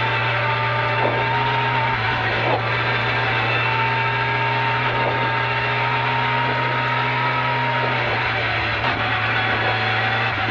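A Peugeot 205 rally car's 164-horsepower engine running at a fairly steady speed, heard from inside the cabin while the car is driven.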